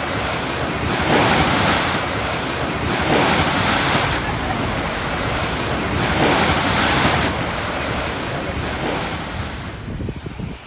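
Storm-driven surf breaking and washing onto the shore, swelling and easing about three times, with strong wind buffeting the microphone.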